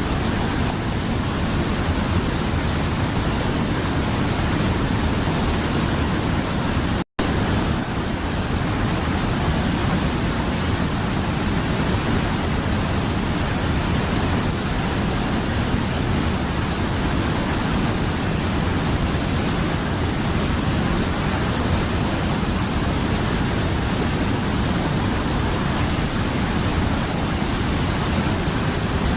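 Mountain river flowing: a steady rush of water that cuts out for an instant about seven seconds in.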